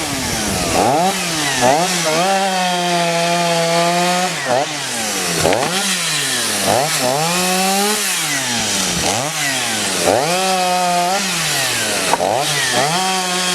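Two-stroke chainsaw running at high revs while cutting wood, its engine note dropping and climbing back again and again between short steady stretches.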